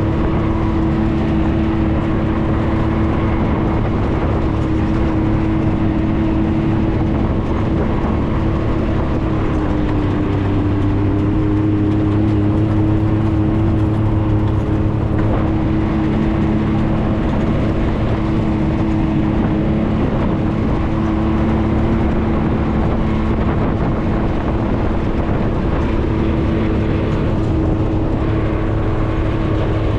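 4x4 vehicle's engine running steadily while driving on a dirt road, heard from on board as an even drone; a deeper low note comes in about ten seconds in and holds.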